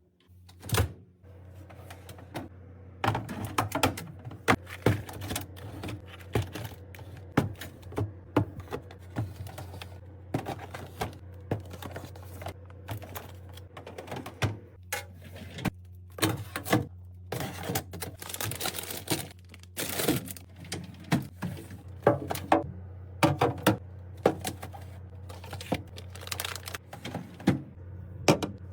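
Irregular clicks, clacks and knocks of containers and packages being handled and set down one after another while a fridge is restocked, over a steady low hum.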